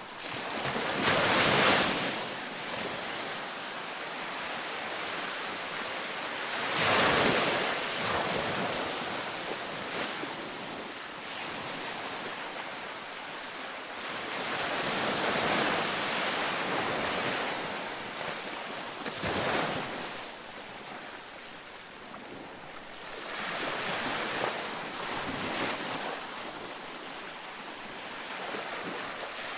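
Ocean waves breaking on a beach: a steady hiss of surf that swells into a louder break every few seconds and washes back down, the strongest breaks about a second in and about seven seconds in.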